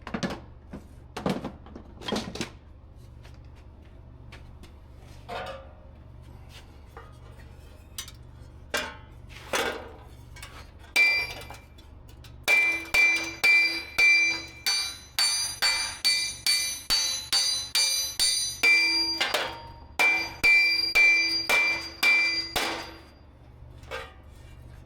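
Hammer blows on a warped steel battery tray on an anvil, straightening it. A few scattered knocks come first, then about halfway in a fast run of ringing metal strikes, about three a second, lasts some ten seconds.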